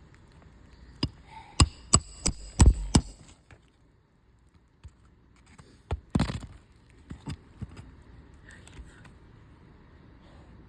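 Metal hammer strikes on an asphalt shingle roof during a shingle repair. There is a quick run of about six sharp, ringing blows in the first three seconds, a louder blow about six seconds in, then a few lighter taps.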